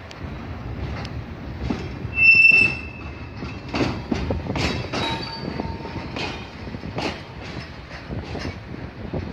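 Freight train of flat wagons loaded with long rails rolling slowly through yard points. The wheels knock irregularly over rail joints and switches, and a brief high wheel squeal about two seconds in is the loudest moment, with fainter squeals later.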